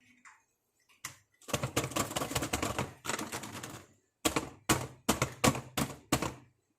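Small plastic toy makeup pieces being handled and set down: a quick run of rapid clicking for about two and a half seconds, then about six separate sharp clicks.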